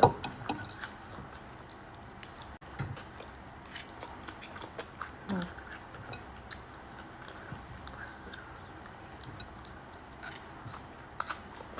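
Close-up chewing and mouth sounds of someone eating a poke bowl of tuna poke, wakame seaweed salad and rice, with scattered small clicks.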